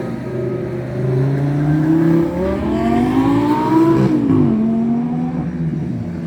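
Car engine driving under load: steady at first, then its pitch rises for about two seconds as it accelerates, drops sharply about four seconds in, and settles to a steady lower note.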